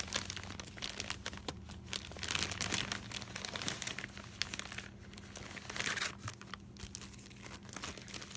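Paper rustling and crinkling in irregular handfuls as loose paper pieces are sorted through by hand, searching for a bird picture.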